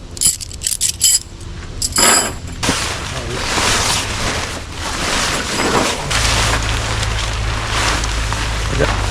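Light metal clinking and rattling, as of tent stakes handled together, then a steady rushing noise. A low steady hum joins it about six seconds in.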